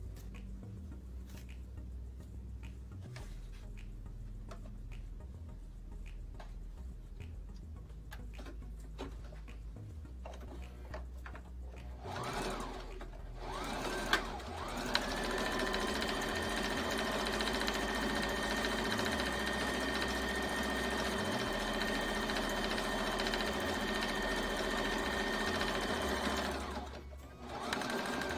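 Sewing machine stitching down the hemmed short end of a tea towel. After some faint clicks, it starts up in two short goes, then runs steadily at speed with an even whine for about eleven seconds. It stops and starts again right at the end.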